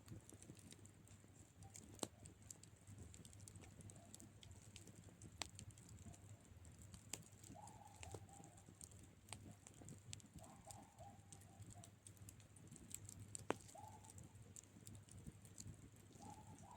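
Faint campfire crackling: sparse sharp pops and snaps from burning wood over a low steady rumble, with the loudest pops about two seconds in and again past thirteen seconds. Four short faint tonal sounds come in the second half.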